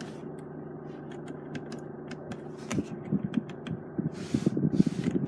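Steady low hum inside a car cabin with a scattered series of light clicks, like dashboard switches and controls being pressed. A rougher rustling and rumbling comes in near the end.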